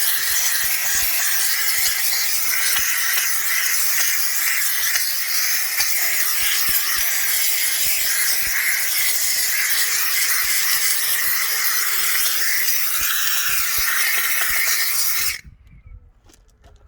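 McCulloch 1375 steam cleaner letting out a steady hiss of steam, which cuts off abruptly about fifteen seconds in.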